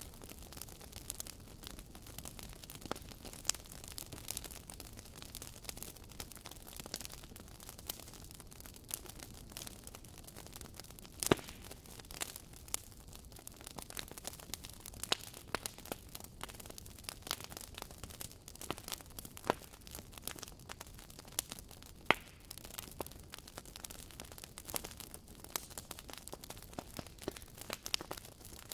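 Wood fire burning in a fireplace: a steady low hiss with frequent irregular crackles and pops, a few sharper snaps standing out.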